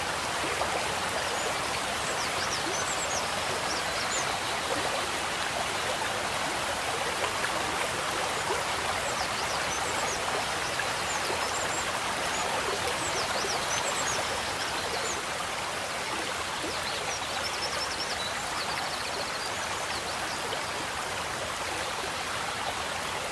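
Running water of a koi pond, a steady splashing rush. Faint, short high chirps come and go above it.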